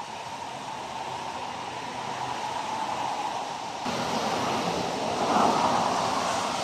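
Steady rushing hiss of traffic on a wet road. It grows louder about four seconds in and swells as a vehicle passes, then eases off.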